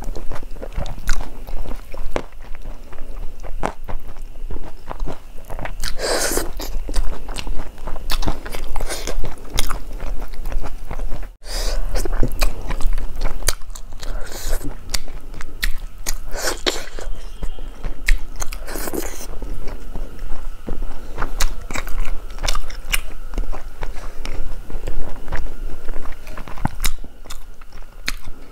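Close-miked eating: wet chewing and lip smacking of rice and fish curry eaten by hand, with some crunching.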